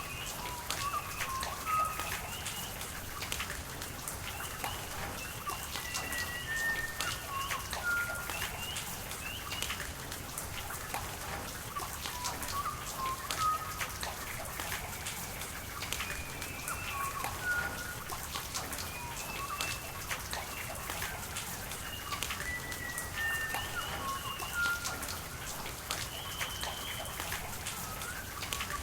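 Steady rain with many single drops pattering, over a constant hiss of water. A bird calls again and again with short whistled notes through it.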